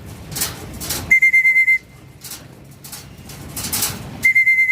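Two short trilled whistle blasts, about three seconds apart, blown to call homing pigeons in to the loft. Between them come bursts of rustling noise.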